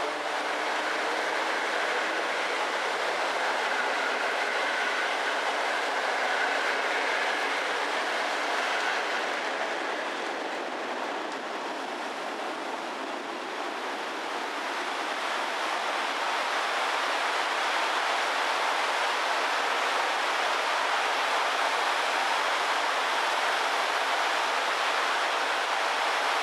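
Passenger train coaches rolling past and pulling away, with steady wheel-on-rail running noise. A faint thin squeal from the wheels carries on for the first several seconds.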